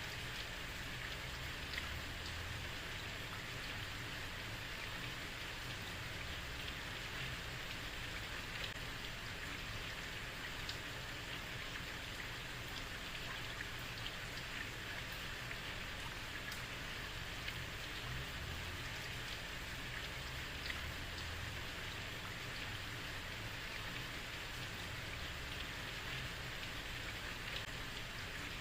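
Heavy rain falling steadily on a street, a dense even hiss with scattered individual drips.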